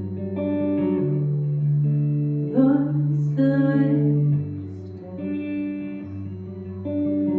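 Live rock band music led by guitars: held chords over slow bass notes that change about every one and a half seconds, with a brighter, louder passage in the middle.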